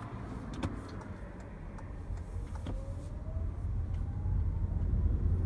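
Toyota C-HR Hybrid heard from inside the cabin as it accelerates: a faint rising whine, then a low rumble from the 1.8-litre petrol engine and road that grows louder toward the end as the engine starts up to help climb a hill. A few light clicks.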